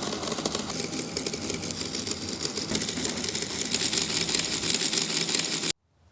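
Working model V6 engine built from an Avishkaar MEX construction kit running, its moving parts clattering in a fast, steady rattle; it cuts off suddenly near the end.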